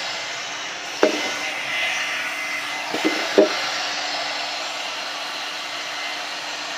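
One-step hot-air brush hair dryer and styler running steadily: a blowing hiss of air over a faint steady motor whine, with a few light clicks of handling about one and three seconds in.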